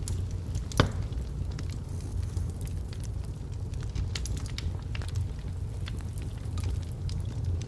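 Wood logs burning in a fireplace: a steady low rumble of the flames with scattered crackles and snaps, and one loud pop about a second in.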